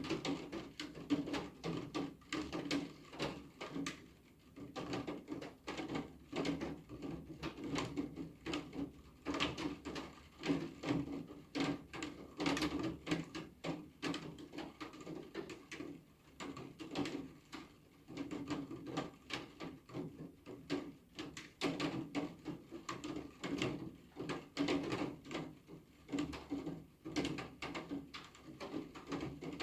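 Rain, with heavy drops tapping irregularly and rapidly on a hard surface.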